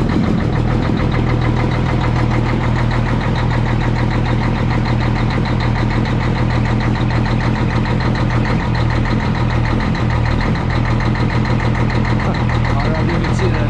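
Straight-piped Cummins ISX diesel in a Peterbilt 379 semi idling steadily, cold, just after a cold start following several days sitting, with a little lope to its idle.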